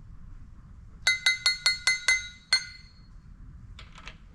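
A metal engine part clinking as it is tapped or knocked about seven times in quick succession, roughly five a second, each strike ringing at the same high pitch; a few faint clicks follow near the end.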